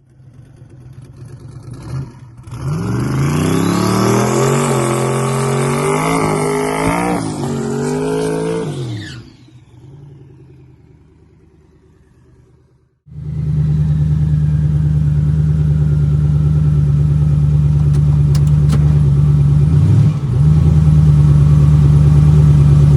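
Twin-turbo 5.3 L LS V8 drag car accelerating hard under low wastegate boost. Its pitch climbs, drops at each gear change and climbs again, then fades away. After a cut, the engine runs steadily at low revs.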